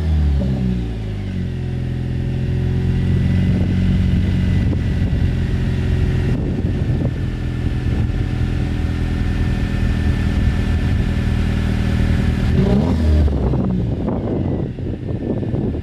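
Jeep Wrangler's 2.0-litre turbo four-cylinder running through an AFE axle-back exhaust with the muffler deleted, at a steady speed with a faint high whine above it, rising and falling in pitch briefly near the end. It is a cold start, which sounds pretty loud.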